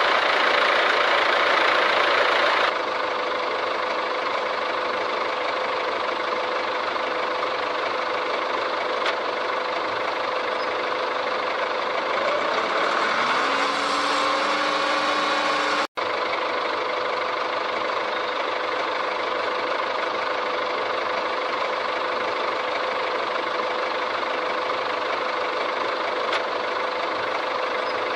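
Engine running steadily, with a short rising whine about 13 seconds in and a momentary dropout shortly after.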